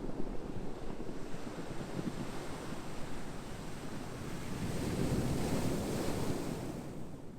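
Ocean waves washing ashore, a steady rushing surf with no tones. One wave swells louder and hissier about five seconds in, then eases off near the end.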